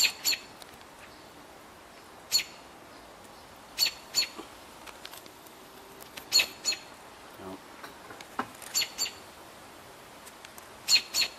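Robin giving short, sharp, high calls, mostly in quick pairs, repeating every two seconds or so.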